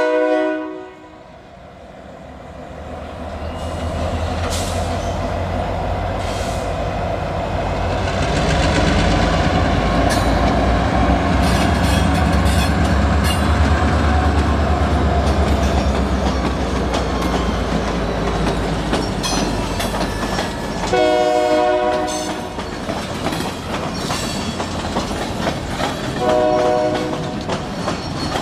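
Union Pacific diesel locomotive passing: a horn blast cuts off right at the start, then the engine's low rumble builds and fades as it goes by, with wheels clicking on the rails. Two more short horn blasts come near the end, a few seconds apart, as a horn salute.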